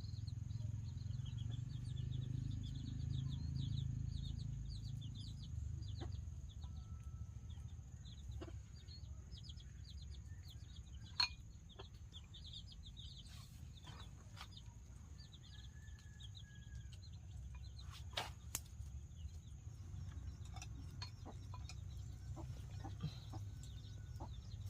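Chickens clucking and peeping in the background over a steady high insect drone and a low rumble, with a few sharp knocks.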